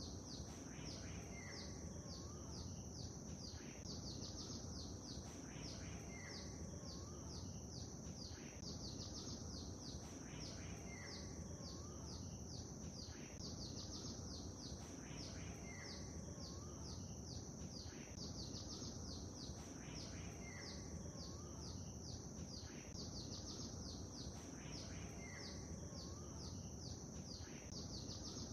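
Birds singing and chirping over a steady background of low noise and a high hiss. Quick high chirps come many times a second, and a longer call comes back about every four and a half seconds.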